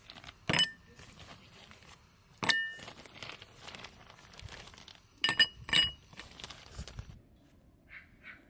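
Glassware clinking: four sharp clinks, each with a brief ringing tone, the last two close together, with soft rustling between them.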